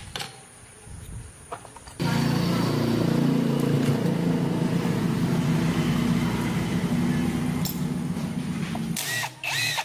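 A motor running steadily, starting abruptly about two seconds in and stopping about a second before the end, followed by a couple of short high squeaks.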